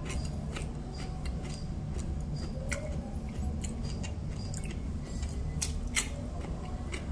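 Close-up eating sounds: chewing with scattered sharp clicks and taps, a few louder ones about three seconds in and again near the end, over a low steady hum.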